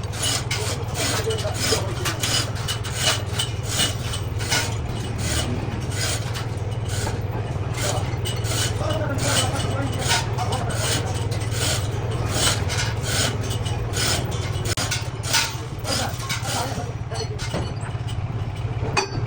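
Heavy boring machine running with a steady low hum while it cuts steel, with frequent irregular metallic clicks and scraping.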